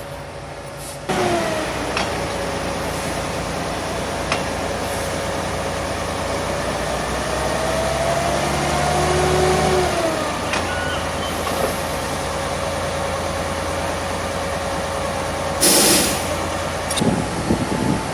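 Railway track maintenance machine running, starting up suddenly about a second in with a steady whine that rises and falls back midway. A short loud hiss comes near the end.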